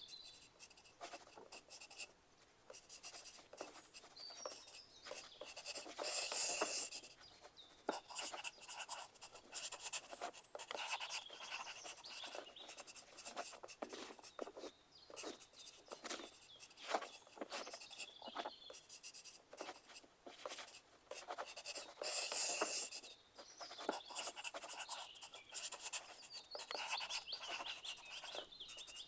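Pencil writing on paper: steady scratching strokes of graphite, with louder bursts of fast scribbling about six seconds in and again about twenty-two seconds in.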